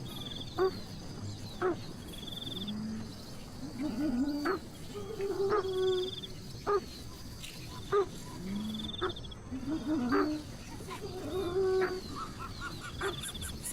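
Bird calls: a short, high trill repeats every few seconds, with lower wavering calls and sharp clicks in between.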